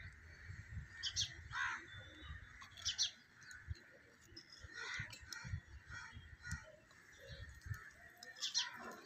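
Birds chirping: short, quick calls repeated every second or two over a steady high hiss.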